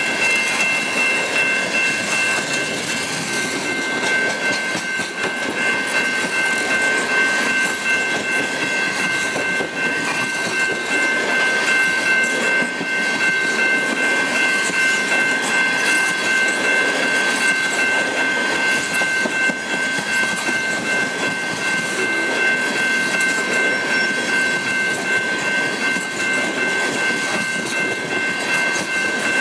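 Loaded coal hopper cars of a long freight train rolling past at steady speed, wheels clicking over the rail joints. A steady, high-pitched ringing tone sounds over the rumble without a break.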